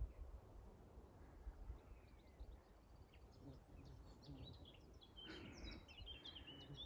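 Faint songbird song, quick chirping and warbling phrases that come in sparsely and grow fuller about five seconds in, over a low rumble.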